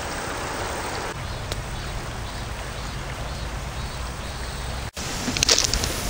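Steady hiss of heavy rain with a low wind rumble on the microphone. About five seconds in, after a brief dropout, sharp irregular clicks and crackles begin.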